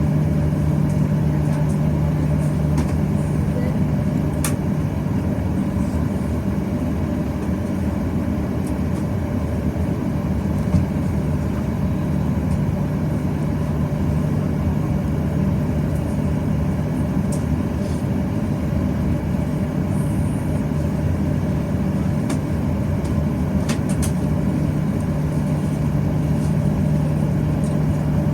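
Steady cabin drone of a Boeing 737-800 with its CFM56 engines running at low power, as during taxi, with a constant low hum and a few faint clicks.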